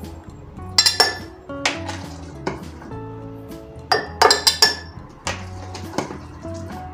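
Kitchenware clinking and clattering as containers and utensils are handled and set down: a series of sharp knocks, with a quick flurry of them about four seconds in, over soft background music.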